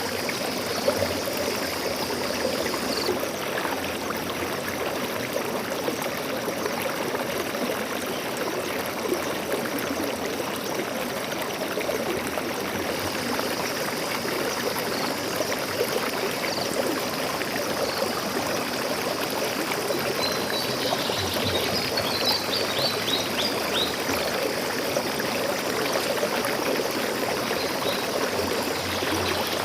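Stream water flowing and trickling in a steady rush. A bird chirps in a quick series of short high notes about two-thirds of the way through, and again briefly near the end.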